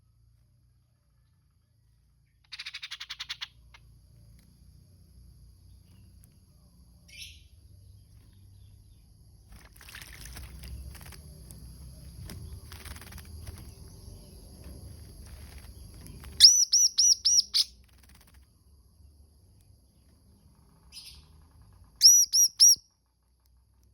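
Grey-cheeked bulbul (cucak jenggot) calling. It gives a harsh, buzzy call about two and a half seconds in, then a quick run of about six loud, clear notes past the middle, and three more loud notes near the end.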